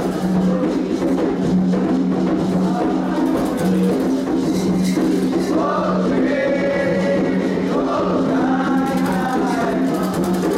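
Candomblé ceremonial song: several voices singing together over steady drum and percussion strokes.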